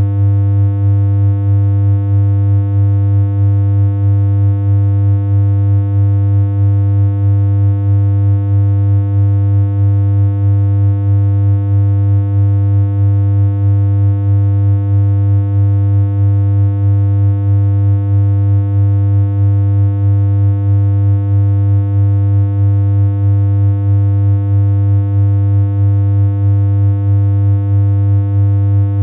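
Continuous low synthesized hum: a single electronic tone held without change, with a buzzy row of overtones above it.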